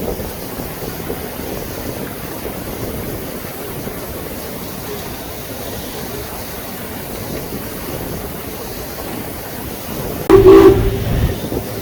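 A steady background rush, then about ten seconds in a loud horn blast: one held tone that breaks off briefly and sounds again near the end.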